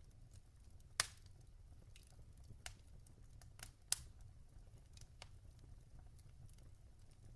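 Logs burning in a fireplace, crackling: scattered faint snaps with two sharp pops, one about a second in and one near four seconds, over a steady low rumble.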